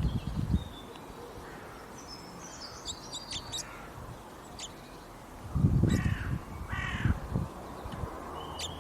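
Wild birds calling: scattered high chirps and short trills, then two louder, harsh calls about six and seven seconds in, along with low thuds.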